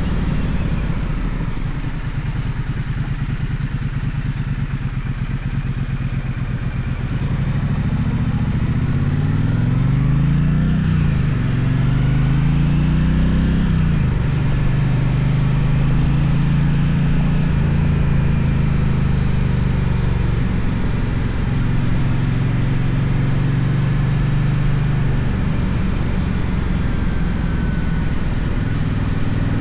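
Gaokin GK1200 motorcycle engine running under way. The revs rise and drop twice, about a third of the way in, as it shifts through the gears, then settle into a steady cruise.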